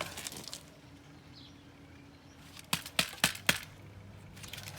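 Sharp strikes on the plastic of a box fan being smashed: a few light clicks, then four quick hard knocks about three seconds in, and another loud one at the very end.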